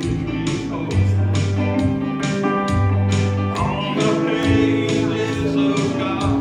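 Live country gospel music: an acoustic guitar strummed in a steady rhythm of about two strokes a second, under sustained bass and melody notes.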